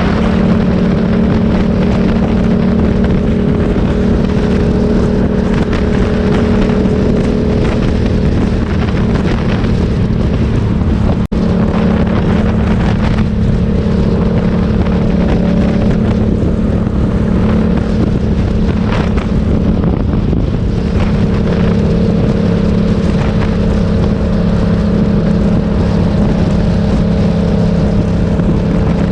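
Motorcycle engine running at a steady cruising speed, with a constant drone and wind noise on the microphone. The sound drops out briefly about eleven seconds in.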